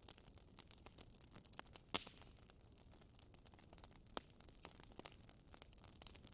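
Burning wood fire crackling faintly, with scattered sharp pops at irregular intervals, the loudest about two seconds in.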